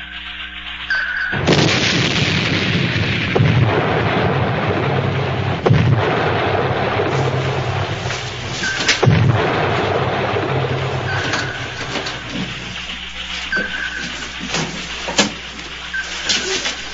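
Depth charges exploding around a submerged submarine, a dramatized sound effect: a sudden deep blast about a second in, with the rumble swelling again with further blasts for some ten seconds before it dies away.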